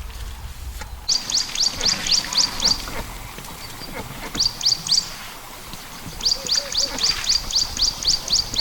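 A bird calling in rapid runs of sharp, high, downward-slurred chirps, about six a second, in three bursts. A low rumble fills the first second before the calls begin.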